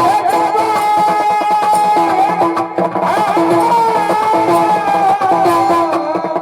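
Marathi kirtan music: a long, wavering melody line held over a steady drone, with a dense rhythm of percussion strokes throughout.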